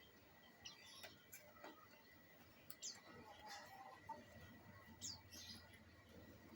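Yellow canary giving faint, short chirps and call notes, a scattered handful about a second apart.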